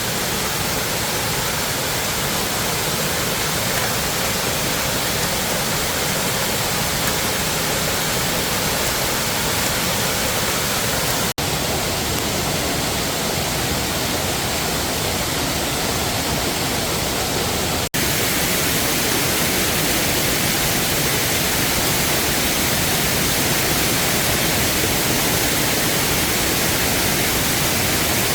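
Waterfall rushing: a steady, loud wash of falling water. It breaks off twice for an instant, about 11 and 18 seconds in, and the texture shifts slightly after each break.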